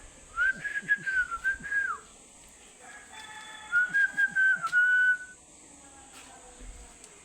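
Two whistled phrases, each about one and a half seconds long, a wavering tone that drops away at the end of each phrase.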